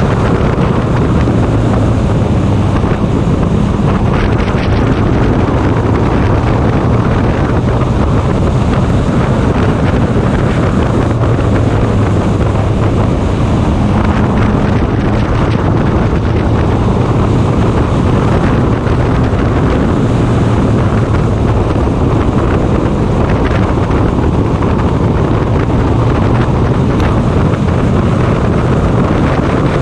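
Race car's engine running flat out at racing speed, a steady, unbroken drone, with wind buffeting the microphone.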